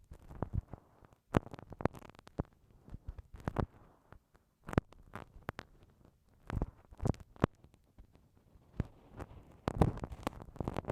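Bamboo ear pick scraping and tapping inside a binaural microphone's ear, in irregular scratchy strokes and sharp clicks with muffled low bumps.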